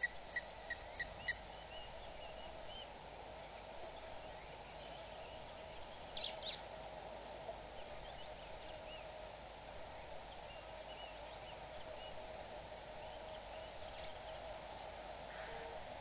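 Wild birds calling over a steady background hum: a quick run of five or six short ringing notes at the start, a brief louder higher call at about six seconds, then scattered faint chirps.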